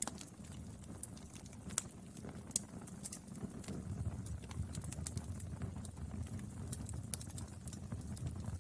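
Firewood burning: a steady low rumble of flame with irregular crackles and sharp pops throughout, a few louder snaps among them, two close together around two seconds in and another near the end.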